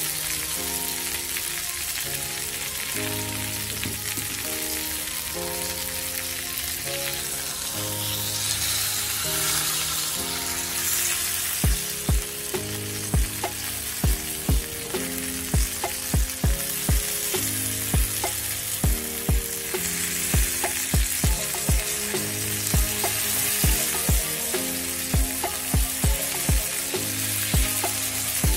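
Chicken frying in olive oil in a pan, a steady sizzle. Background music plays alongside, and a thumping beat comes in about twelve seconds in.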